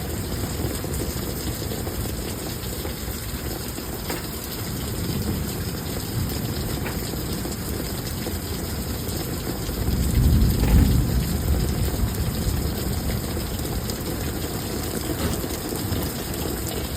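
Heavy rain pouring steadily, with a low rumble that swells for a second or two about ten seconds in.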